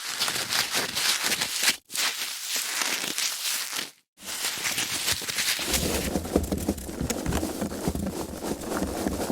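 Foam packaging being handled: a dense crackle of many small clicks, in short takes broken by two brief gaps of silence at about two and four seconds in. The sound grows fuller and lower from about six seconds in.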